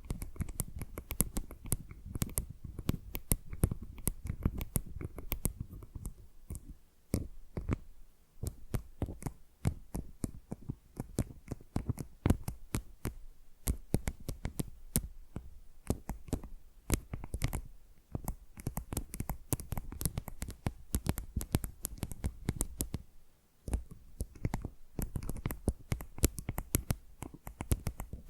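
Fingernails tapping and scratching on a tile, close-miked: a dense, irregular run of sharp clicks and taps with a soft low thump under them, pausing briefly a few times.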